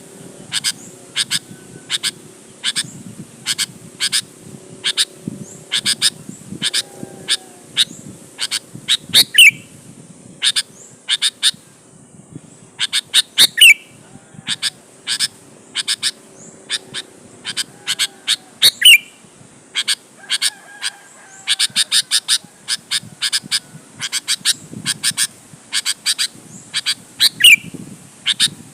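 Sooty-headed bulbul (kutilang) calling in a fast series of short, sharp notes, about two a second, with a louder falling note every few seconds.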